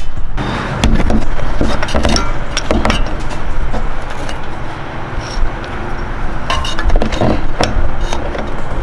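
Metal hand tools and clutch-puller adapter pieces clinking and clattering against each other, a run of sharp irregular clinks over a steady background rush.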